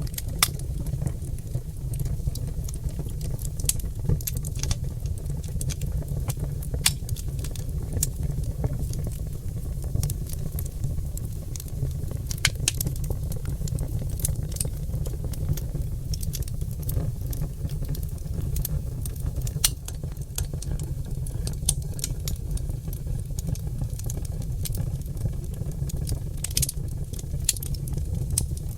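Oak logs burning in a fireplace, crackling and popping in frequent, irregular sharp snaps over a steady low rumble.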